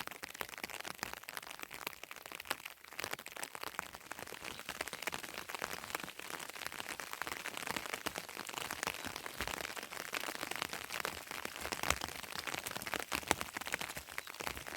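Heavy rain pattering: a dense, steady crackle of drops striking a surface.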